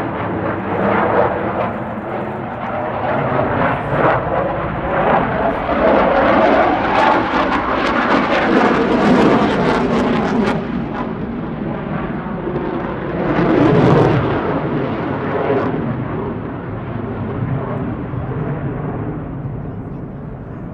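Jet noise from an RCAF CF-18 Hornet's twin General Electric F404 afterburning turbofans as the fighter flies its display. It swells about a third of the way in, peaks again around two-thirds through, then fades.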